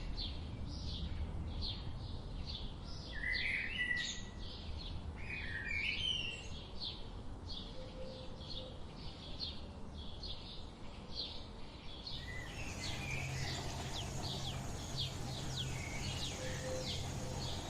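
Several small birds chirping: a dense run of short, quick chirps with a few warbled phrases, over a steady background hiss. A low hum joins about two-thirds of the way through.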